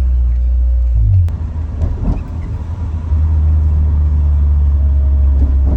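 Car driving, heard from inside the cabin: a steady low engine and road drone that eases and turns rougher about a second in, then settles back to a steady drone about three seconds in.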